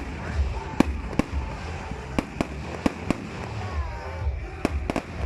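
Fireworks going off in an aerial display: a string of sharp bangs at irregular intervals, sometimes two or three in quick succession.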